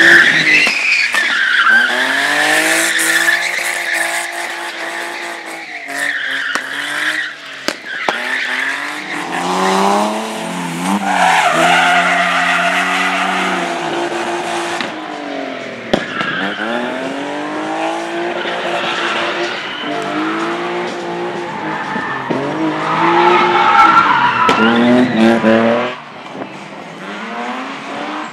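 Car engine revving hard and dropping back again and again with gear changes, while the tyres squeal through sharp turns on a slalom course; the loudest squeals come at the start, in the middle and near the end.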